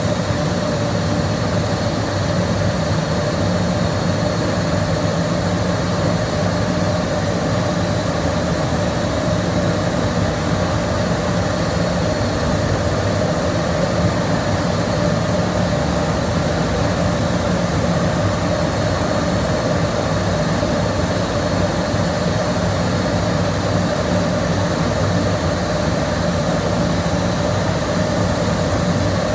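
A boiler being fired under test, with the fire and its draught making a steady, unbroken roar and an even hum that does not change.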